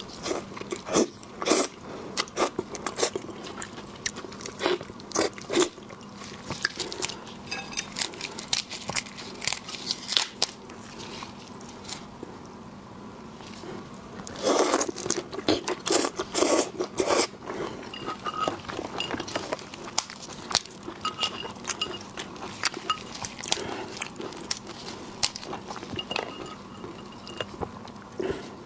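Shellfish being eaten close to the microphone: crisp crunching bites and chewing at an uneven pace. There is a dense run of loud crunches about halfway through.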